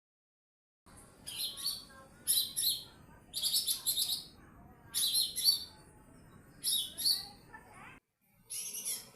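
Lesser green leafbird ('cucak ijo mini') in full song, delivering about six short, loud, high-pitched phrases of rapid notes with brief pauses between them.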